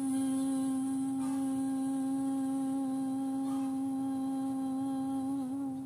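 A person's voice holding one long, steady vocal tone in light language toning, wavering slightly near the end.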